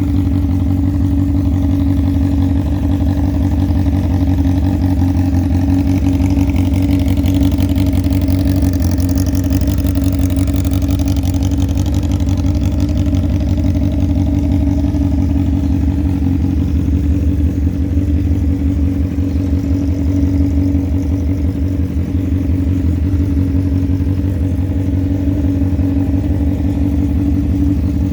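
2005 Honda CBR600RR's inline-four engine running steadily at idle, a constant low rumble.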